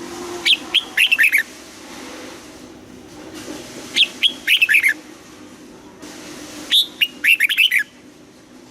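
Red-whiskered bulbul singing three short song phrases, each a sharp high note followed by a quick run of falling whistled notes.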